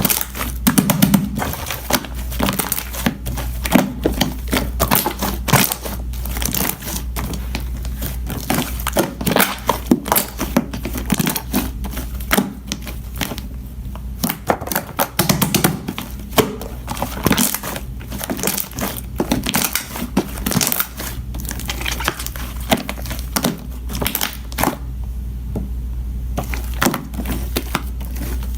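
Dense crinkling and crackling from something being handled or squeezed, with many small sharp clicks in irregular clusters, over a steady low hum.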